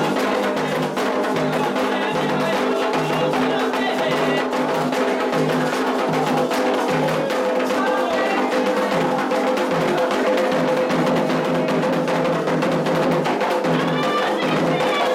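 Candomblé atabaque drums playing a steady, driving rhythm with a sharp struck percussion pattern on top, and voices singing faintly at times.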